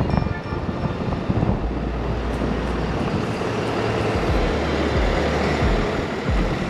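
Wind buffeting the microphone of a bicycle-mounted action camera while riding, over steady road traffic noise, with uneven low rumbling gusts.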